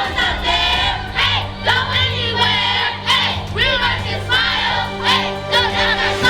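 A room of children shouting and cheering excitedly all at once, many high voices overlapping, over loud music with steady bass notes.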